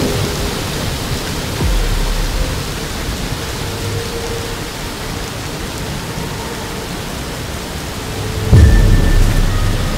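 Heavy rain pouring steadily, with a low rumble of thunder about two seconds in and a loud thunderclap about eight and a half seconds in.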